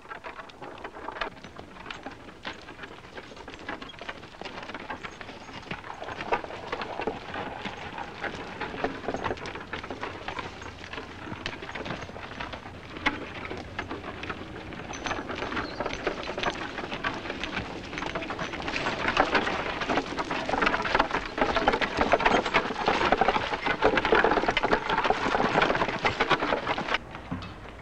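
Horse and wooden-wheeled log cart moving along a muddy forest track, a dense crackling and crunching of hooves and wheels that grows louder toward the end.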